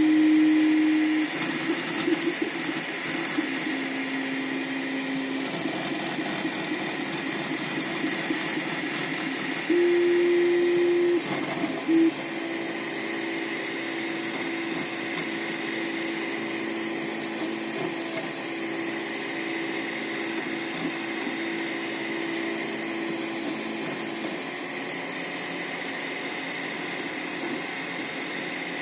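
Anet A8 3D printer printing, its stepper motors on TMC2208 drivers humming in steady tones that jump to new pitches as the moves change, with a louder, higher tone for about a second and a half near ten seconds in. A steady high whine and fan whir run underneath. This is the recurring odd noise the owner is trying to trace after the board swap; he has ruled out the extruder.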